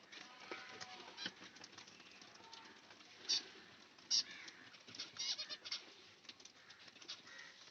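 Faint chirps and short calls of small cage birds, budgerigars and finches, over light ticking as they peck at the food. Two sharper high calls come a few seconds in, followed by a quick run of chirps.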